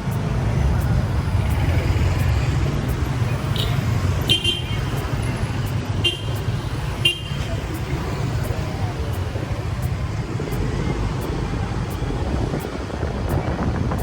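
Motorbike running on the road with steady engine and wind rumble, and four short horn toots about three and a half to seven seconds in.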